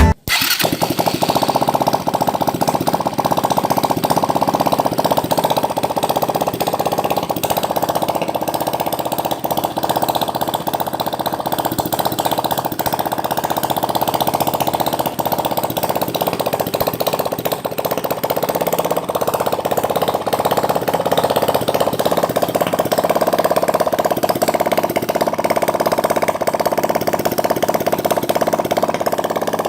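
A 175cc water-cooled engine running steadily at an even speed, with a fast, regular firing rhythm.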